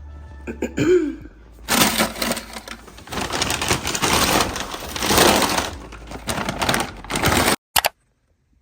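Plastic packaging crinkling and rustling as it is handled, a dense crackle lasting about six seconds that cuts off suddenly.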